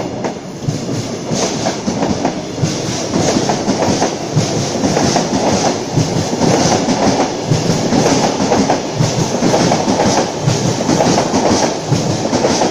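Sydney Trains Tangara double-deck electric train rolling past close by, its wheels clattering over rail joints in a dense run of clicks. It grows louder over the first couple of seconds as it arrives, then stays loud.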